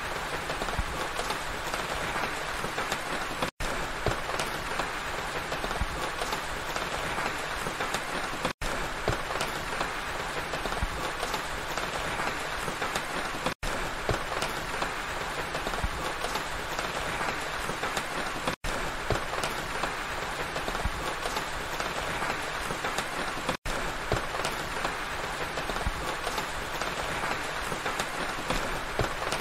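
Steady rain falling, a dense even hiss with many separate drop hits. The sound cuts out for an instant about every five seconds.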